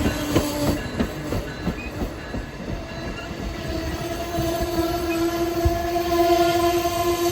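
Amtrak passenger train 609 running through the station: a loud rumble of wheels on rail with many short knocks. About halfway through, a steady ringing tone comes up and keeps getting stronger.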